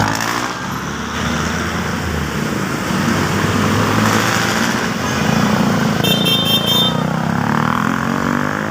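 Busy road traffic: vehicle engines running and tyre noise. About six seconds in there is a brief high, pulsing tone. Near the end an engine rises in pitch as a vehicle accelerates.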